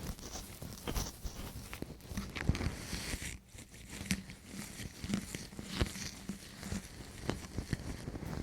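Close-miked ASMR ear cleaning: a tool scraping and rubbing right against the microphone, making an irregular run of small scratches, crackles and rustles.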